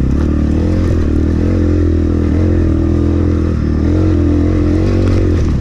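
Templar X 250 dirt bike engine pulling up a climb, its pitch rising and dipping a little with the throttle, under a heavy low wind rumble on the microphone.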